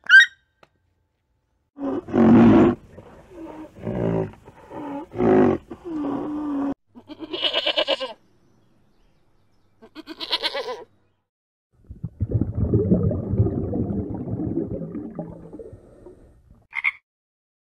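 A series of different animal calls one after another: several low pitched calls, two rasping pulsed calls, then one long low rough call, and a short high croak near the end.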